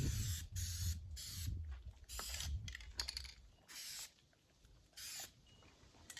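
Spray paint hissing onto a car body in short bursts, about seven of them, each under half a second. A low rumble sits under the first three seconds.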